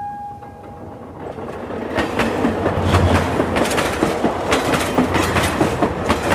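Fairground mini train ride starting off and rolling along its small steel track, the wheels clicking over the rail joints in a quick steady rhythm as it picks up speed. The last of a horn tone fades away in the first second.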